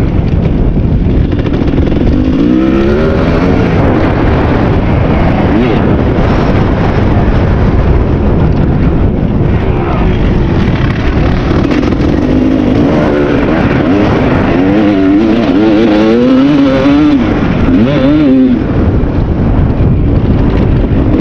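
2001 Kawasaki KX250's single-cylinder two-stroke engine being ridden, revving up and dropping back repeatedly as the throttle is worked and the gears change.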